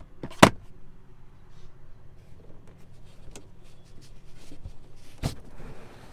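Two sharp knocks about five seconds apart, the first much the loudest, with lighter clicks between them and a brief rustle near the end: parts of the minivan being handled.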